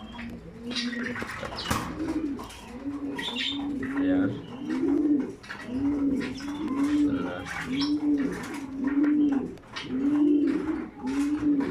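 Racing pigeons cooing, a steady run of repeated coos about one a second, each rising and falling in pitch, with light clicks and rustles among them.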